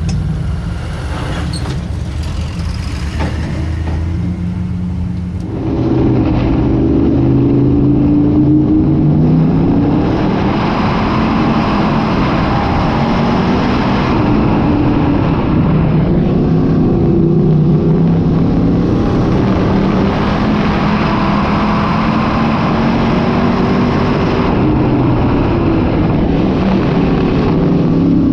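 Dirt-track modified race car engines running, their pitch holding and stepping as they rev. The sound grows louder about five and a half seconds in.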